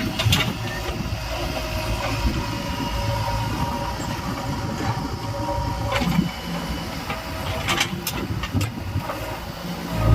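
Diesel engine of a JCB 3DX backhoe loader running steadily while it works, with a few sharp metallic knocks in the second half.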